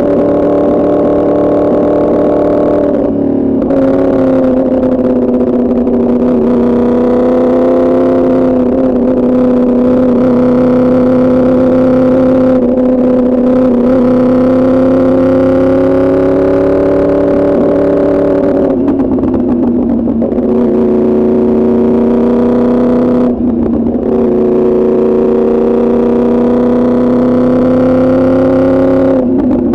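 Yamaha R1's crossplane inline-four engine running through an Arrow Pro Racing exhaust under way, holding a steady, loud note that drifts slightly in pitch. Several times the note briefly breaks off and comes back at a slightly different pitch.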